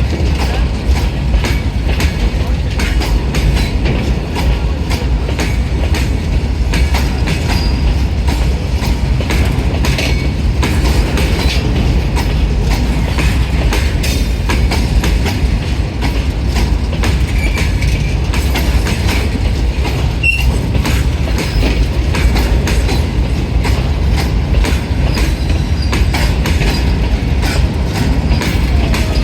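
A train running along the track: a steady heavy rumble with the wheels clicking over rail joints. There is a brief high squeak about twenty seconds in.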